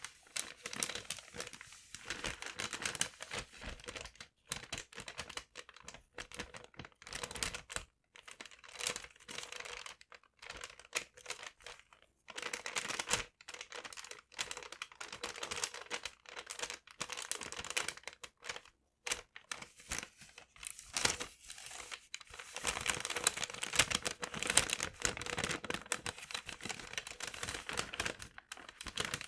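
Paper being crumpled and crinkled close to the microphone, in irregular rustling bursts with brief pauses. The handling grows busier and louder in the last several seconds.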